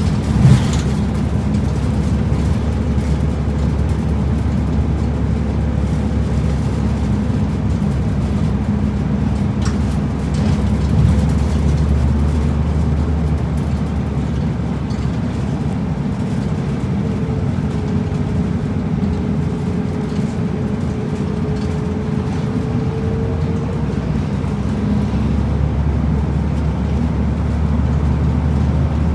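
Route bus driving, heard from inside the cabin: a steady engine and road rumble. There is a sharp knock about half a second in, and a faint whine that rises and falls in the middle.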